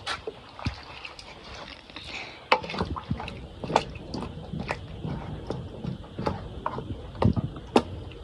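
Irregular knocks and clicks of cooking utensils and a pot being handled during food preparation.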